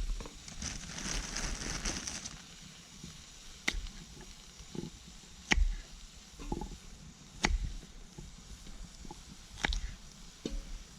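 Knife chopping vegetables on a chopping board: a few sharp, separate chops about two seconds apart, with smaller knocks between them and some rustling near the start.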